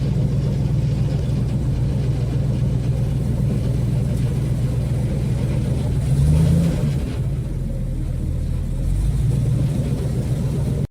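Tour boat's motor running steadily under way, briefly revving up with a rising pitch about six seconds in, then settling back.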